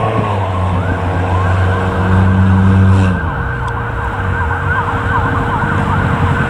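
Ladder fire truck's electronic siren in a fast yelp: rapid rising and falling sweeps, several a second. Under it runs a deep steady tone that cuts off about three seconds in.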